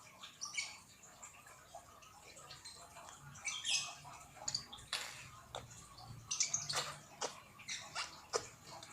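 Slime being squeezed and kneaded by hand, making irregular wet clicks, crackles and pops that come thicker in the second half.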